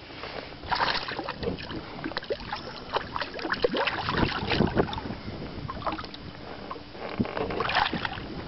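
Irregular knocks, taps and rustles of a freshly landed fish being handled in a small fishing boat, with a cluster of louder low knocks about halfway through.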